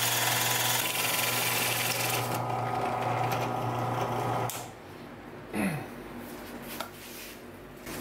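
Power drill running as it drills a hole through a wooden birdhouse front piece, a steady motor hum that stops about four and a half seconds in.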